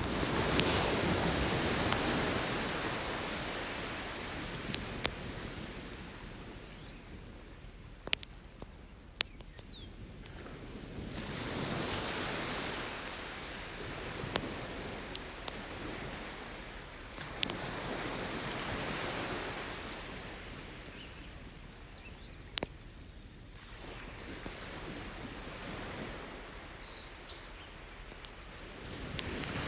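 Ocean waves breaking and washing up the shore, swelling and fading every six to eight seconds. A beach campfire gives sharp pops and crackles every few seconds.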